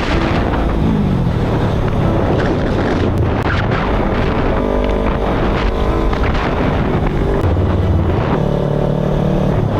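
Motorcycle engine running at road speed under heavy wind rush on the microphone, its pitch rising and falling a few times with throttle and gear changes.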